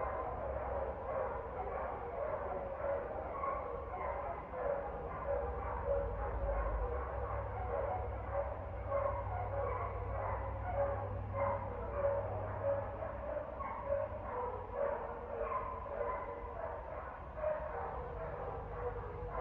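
Dogs barking over and over without a break, with a steady low rumble underneath.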